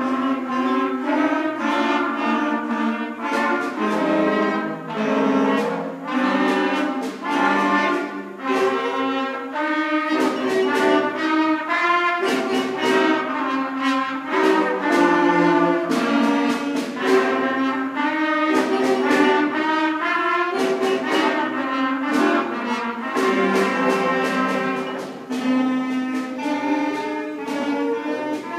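Fifth-grade beginning concert band of clarinets, trumpets, flutes and saxophones with bass and percussion, playing a minor-key tune in divided parts, with regular percussion strikes.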